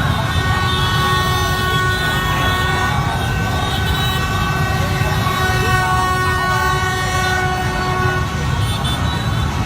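Several horns held in long, steady notes at different pitches, over a dense, loud crowd and traffic din.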